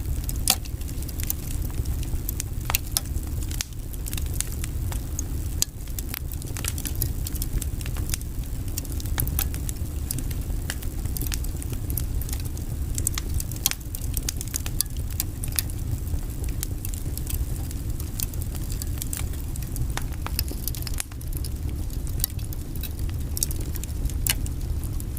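Log fire in a fireplace crackling, with irregular sharp snaps and pops over a steady low rumble of the flames.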